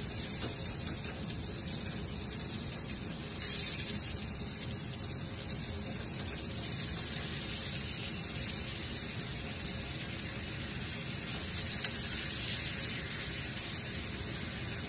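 Onions and garlic sizzling in hot oil in a frying pan as it is stirred with a spatula. The sizzle flares louder twice, about three and a half seconds in and again near twelve seconds in, as raw chicken pieces go into the pan.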